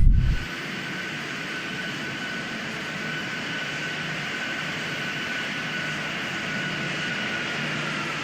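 Jet airliner engines: a steady rushing noise with a high whine that drops slightly in pitch near the end.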